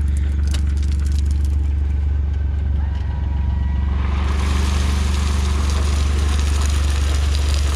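A John Deere Gator's engine runs steadily. From about four seconds in, a load of gravel slides and pours out of its tipped cargo bed with a rough, steady hiss.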